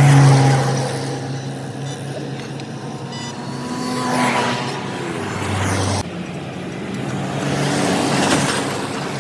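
Road traffic: vehicles pass by twice, each swelling up and fading away, over a steady engine hum.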